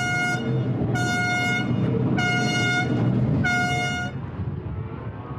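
Horn sounding in short, evenly spaced blasts, about one every 1.2 seconds, with the last one ending about four seconds in, over a steady low hum.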